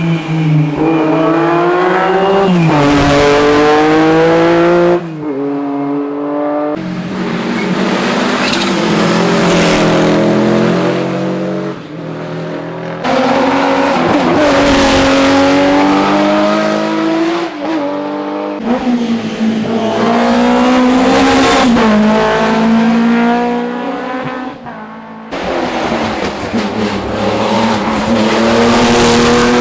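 Historic rally cars at speed on a closed road stage, one after another, engines revving hard and dropping through gear changes, with some tyre squeal. The sound changes abruptly several times as one car's pass gives way to the next.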